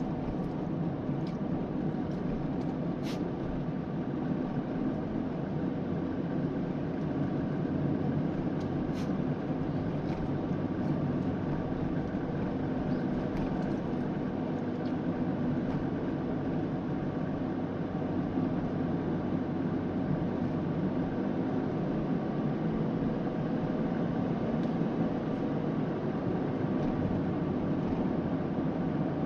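Suzuki Spacia driving at highway speed: steady road and engine noise with a continuous abnormal noise that never lets up, heard as faint steady tones running through it.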